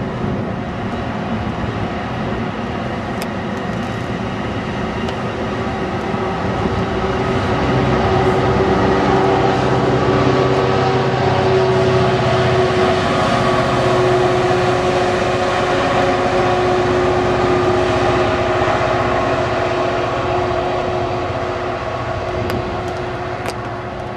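Passenger train running at a station, a steady mechanical hum with several held tones over a low rumble, growing louder about a third of the way in and easing off near the end.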